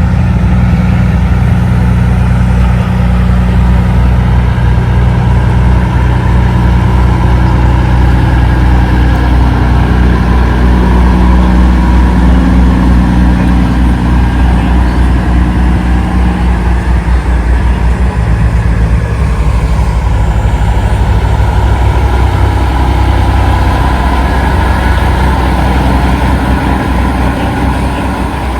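Heavy diesel engine of a big-rig truck running loud and steady, its engine note shifting a little past halfway.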